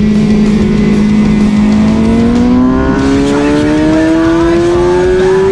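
Suzuki GSX-R 600's inline-four engine at speed, holding steady revs for about two seconds and then climbing steadily in pitch under acceleration.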